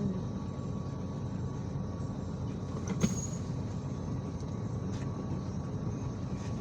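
Inside an IVECO Crossway 13M PRO city bus under way: a steady rumble of engine and road noise, with one sharp knock or rattle about three seconds in and a couple of faint clicks later.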